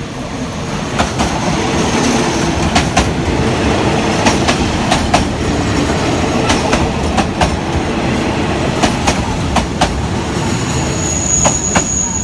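State Railway of Thailand diesel railcar train rolling slowly past at close range as it pulls in to stop: a steady engine drone and rumble with repeated wheel clacks over the rail joints. A high steady squeal from the wheels comes in near the end.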